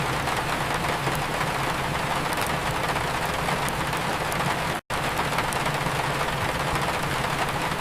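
Steady rain mixed with a fireplace crackling, a dense even hiss over a low rumble with faint scattered pops. The sound cuts out completely for a split second just under five seconds in, then resumes unchanged.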